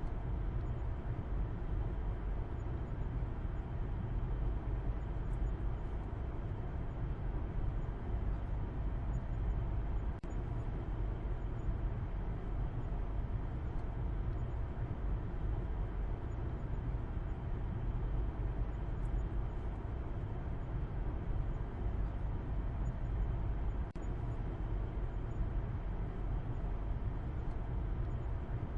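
Steady low rumble of a car driving, engine and road noise with most of the sound in the deep bass. The level dips very briefly twice.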